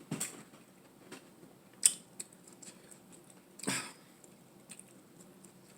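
Close-miked eating sounds: scattered wet smacks and clicks of chewing, with three louder ones about a quarter second, two seconds and nearly four seconds in.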